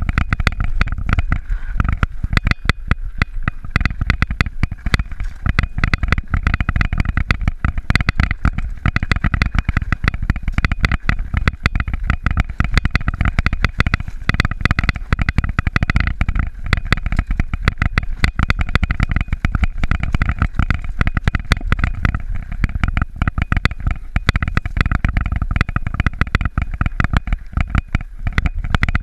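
Mountain bike riding over a rough trail: a steady low rumble with constant rattling and clicking from the bike.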